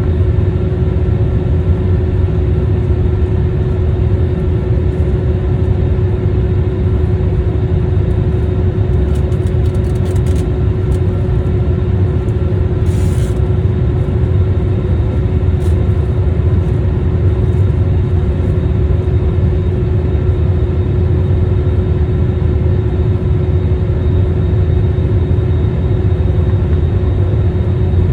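Airliner's jet engines and airflow heard from inside the cabin as a steady, loud rumble with a constant hum.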